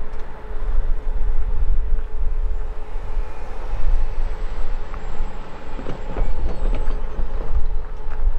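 CSX freight train rolling past: a steady rumble of cars on the rails, with a faint steady whine running through it.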